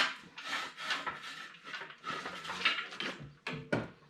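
Irregular scraping and rubbing with a few sharp knocks, from hands-on work pulling the Subaru Brat's engine: a knock at the start and two quick knocks about three and a half seconds in.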